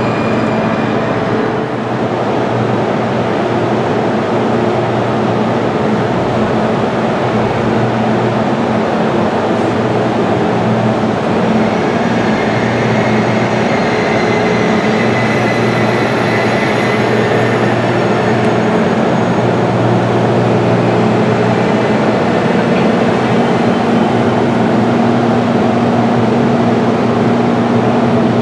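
Eurostar Class 373 electric train running with a steady low hum and rumble from its traction equipment, growing slightly louder toward the end, with a faint high whine about halfway through.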